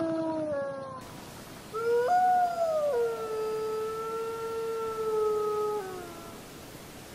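Wolf howling: one howl falls in pitch and fades out within the first second, then a second long howl begins, rises, jumps briefly higher, holds one steady pitch for about three seconds and drops away about six seconds in.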